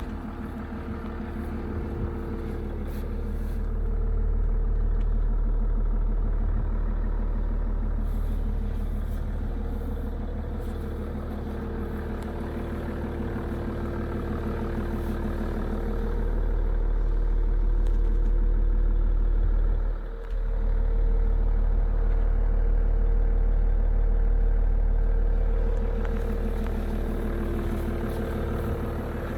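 Mercedes-Benz E320 CDI diesel engine idling steadily shortly after a cold start in freezing weather. Its level swells twice and drops briefly about two-thirds of the way through.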